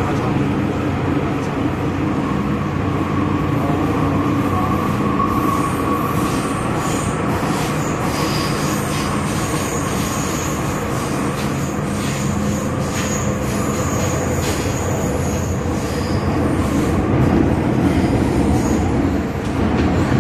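MTR Kwun Tong Line M-Train electric multiple unit running: a steady rumble of wheels on track, with thin high wheel squeal coming and going from about halfway through.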